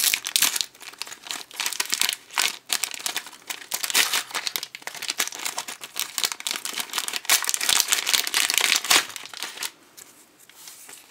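Crinkly blind-bag packet being torn open and rustled by hand: dense crackling and crinkling that dies down near the end.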